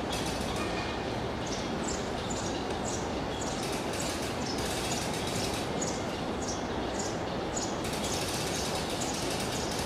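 A bird chirping repeatedly over a steady rushing background noise: short, high, falling chirps about two a second, breaking off briefly near the end before starting again.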